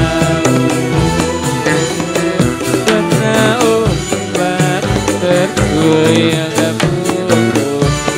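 Dolalak dance music: drums beating a steady rhythm under a melody line.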